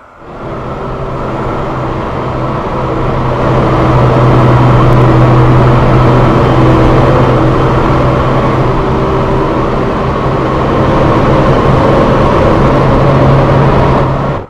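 MRT Line 3 light rail train running, a steady low motor hum over wheel and rail noise. It cuts in suddenly, grows louder over the first few seconds, then holds steady until it cuts off suddenly.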